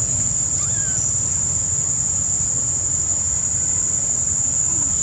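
A steady, high-pitched insect drone that does not break, over a low rumble, with a faint short squeak about half a second in.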